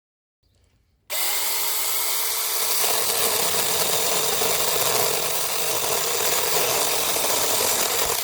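Small cordless battery-powered handheld chainsaw switching on about a second in with a motor whine, then cutting through wood steadily, and stopping suddenly near the end.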